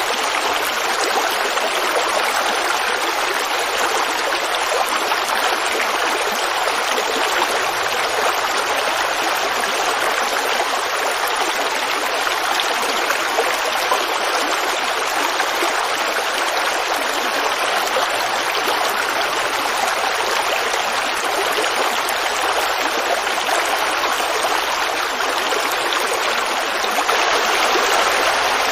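Forest creek babbling and running steadily over stones, a continuous even rush of water.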